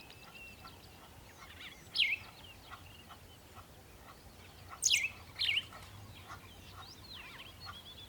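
Birds calling: a loud, sharp call that sweeps downward in pitch comes about two seconds in and twice near the middle, with fainter chirps and twitters between.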